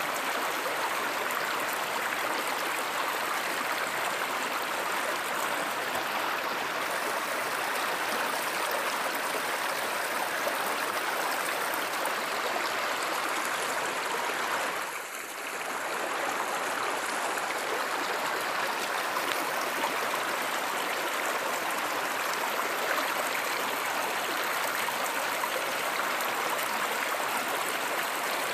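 A river or stream of running water, a steady rushing and gurgling flow. It dips briefly about halfway through, then returns unchanged.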